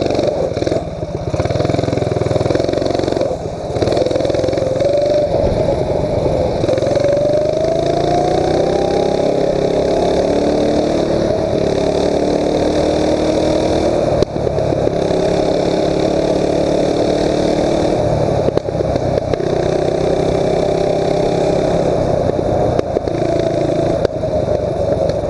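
Mini bike engine running as the bike is ridden, revving up over a few seconds about a quarter of the way in and then holding a steadier, higher pitch. There are short drops in power twice in the first few seconds.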